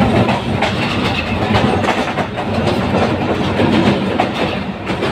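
Diesel-hauled train running along the track: a steady low engine rumble with irregular clicking and clacking of wheels over rail joints.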